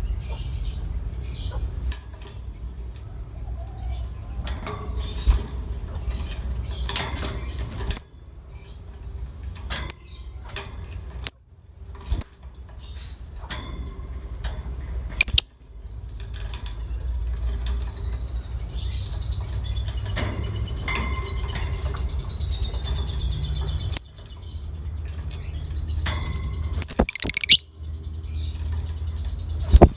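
Lovebird chirping and chattering in short calls over a steady high-pitched drone. The recording cuts off abruptly several times with sharp clicks.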